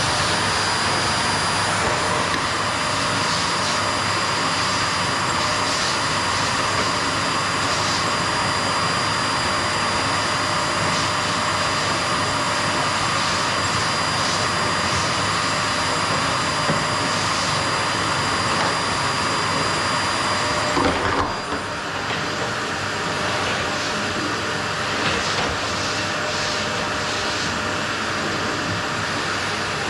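Qilive vacuum cleaner running steadily on a wooden floor, a continuous rushing sound with a high whine over it. About two-thirds of the way through, the whine drops out and the sound briefly dips and changes, then runs on a little quieter.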